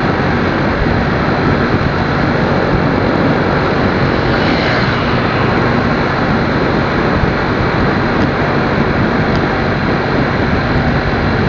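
Steady loud rushing roar of wind and road noise while riding a motorcycle, with the engine running underneath.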